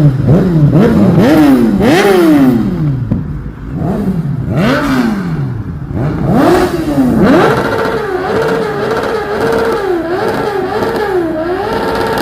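Kawasaki inline-four sportbike exhaust being revved: several quick sharp blips that rise and fall in pitch, then a few longer revs. From about halfway through, the revs are held higher, with the pitch wavering up and down.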